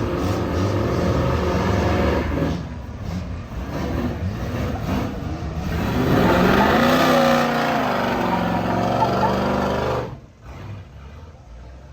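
Car engine revving: the pitch climbs about six seconds in, holds, and falls back, then the sound drops away sharply near the end.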